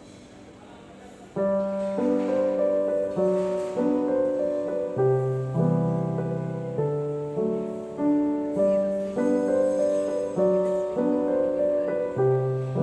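Background piano music that starts abruptly about a second and a half in, playing a gentle melody over slow, evenly changing notes.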